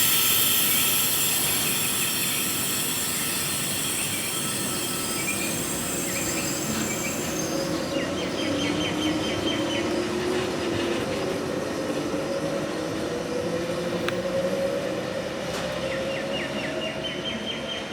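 Electric passenger train moving through the station: a low whine that slowly rises in pitch as it gathers speed, with a loud hiss at the start that fades. About halfway through and again near the end, the wheels squeal high on the rails.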